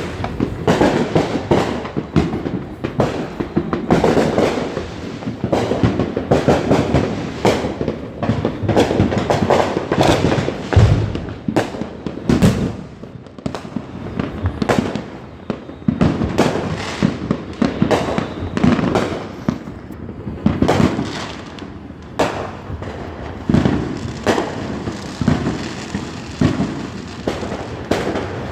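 Fireworks going off without a break: a dense, overlapping run of bangs and crackles, several a second.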